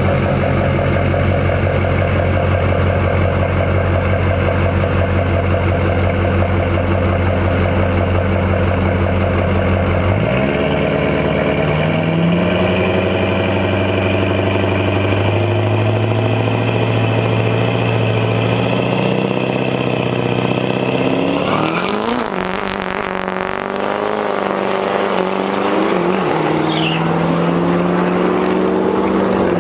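Diesel pickup truck engine held at a steady high pitch, then launching about ten seconds in and accelerating, its pitch climbing in steps through the gear changes. About two-thirds of the way through comes a short burst of noise, after which engine sound rises and falls.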